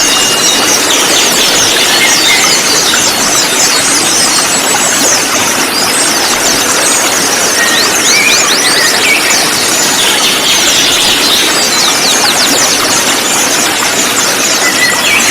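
A flock of kolibri ninja sunbirds chirping and twittering together: a dense, unbroken chatter of rapid high trills and short calls. It sits over a steady hiss.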